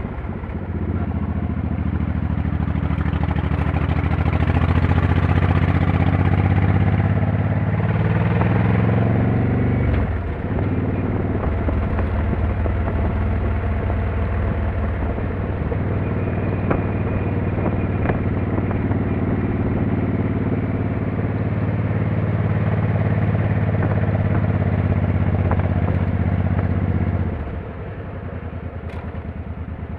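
Motorcycle engine running under way, pulling up through the revs, a brief break about ten seconds in as a gear is changed, then holding a steady cruise. Near the end the throttle is closed and the engine drops to a quieter, lower note.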